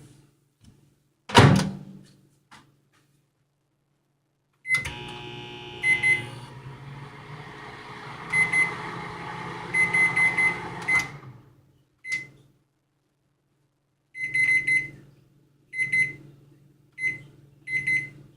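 Microwave oven: a sharp knock near the start, then the oven running with a steady hum broken by high beeps, stopping about eleven seconds in, followed by a run of short high beeps.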